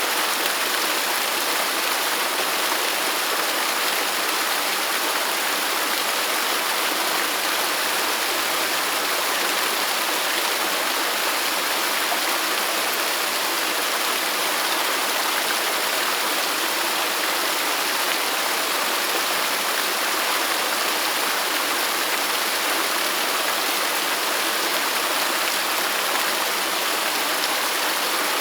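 Waterfall: a steady, unbroken rush of falling water, with its weight in the middle and upper range and little low rumble.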